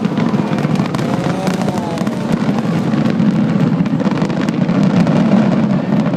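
Fireworks finale barrage: many shells bursting in quick succession, merging into a continuous rumble with rapid crackling over it.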